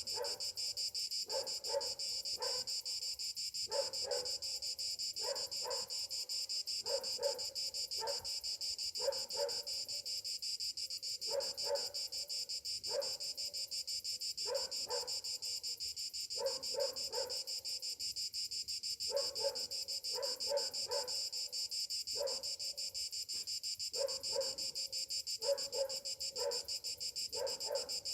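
Cicadas calling in a steady, unbroken high-pitched drone. Over it, short lower-pitched calls from another animal repeat in quick groups of two to four, every second or two.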